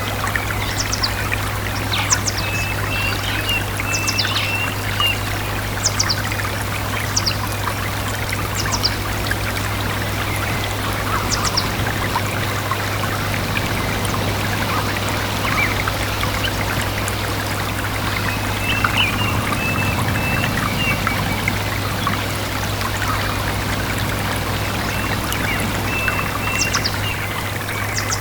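Small stream trickling and babbling steadily, with birds calling over it: short high chirps that drop in pitch, repeated about once a second in the first third and again near the end, and strings of short, lower chirping notes near the start and middle. A faint steady low hum sits under the water.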